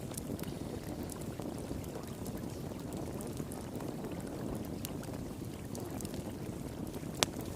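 Steady rush of flowing water, with a wood fire crackling over it in scattered sharp pops; one loud pop near the end.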